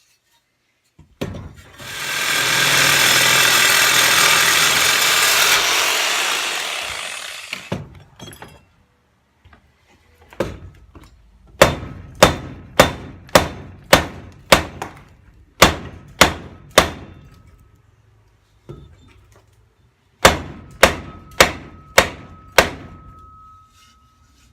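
A power tool runs for about five seconds, coming up to speed and winding down. Then two runs of sharp knocks, about two a second, come from work on the exhaust pipe.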